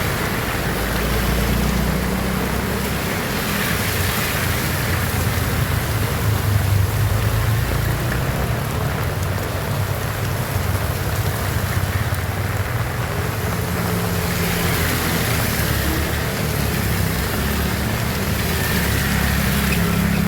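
Heavy rain pouring steadily, with a low rumble underneath that swells and eases.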